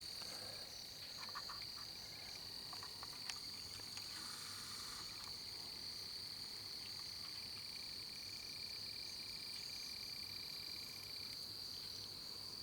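Faint night chorus of insects and frogs: a steady high-pitched insect drone, with a pulsing frog-like trill coming in near the end. One soft click about three seconds in.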